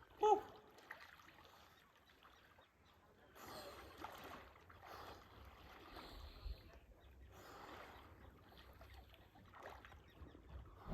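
A short "woo" shout, then faint sea water lapping, soft washes coming every second or two.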